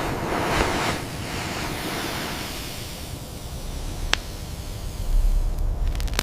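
Blizzard wind blowing in a gust, strongest at first and slowly dying down over several seconds, with a single sharp click about four seconds in.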